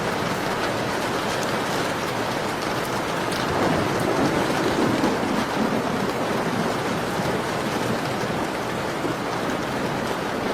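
Steady rain falling, an even hiss of drops, which swells louder for a couple of seconds about four seconds in. A few faint sharp ticks sit over it, fitting a fireplace crackling.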